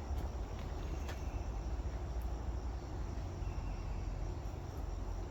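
Steady background chorus of insects over a low rumble, with a few faint clicks in the first two seconds.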